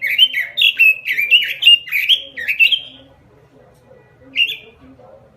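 Red-billed leiothrix (Pekin robin) singing a fast run of about ten sharp, downward-slurred whistled notes for about three seconds, then one more note about four seconds in.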